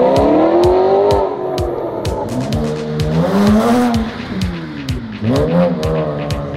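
Supercar exhaust revving: the engine note climbs and falls several times, with a quick sharp blip near the end. Music with a steady beat plays along.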